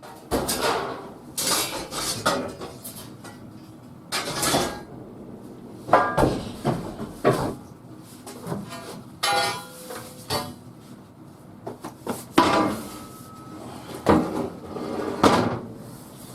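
Metal clanking: irregular knocks and clangs of steel pieces against one another, one ringing on with a clear tone about nine seconds in.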